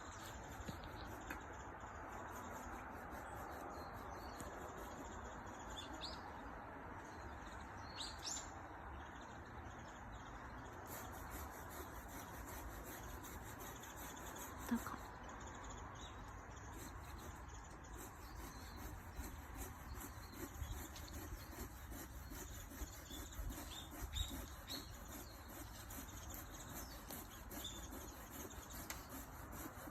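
Wild birds giving occasional short, rising chirps, faint over a steady background hiss. There is a single brief sound about halfway through.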